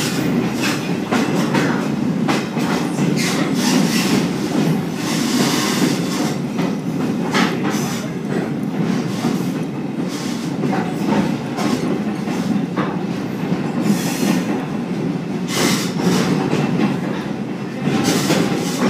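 Train in motion heard from inside a riding caboose: a steady rumble of wheels on the rails, broken by irregular clicks and clanks as the wheels pass over the track.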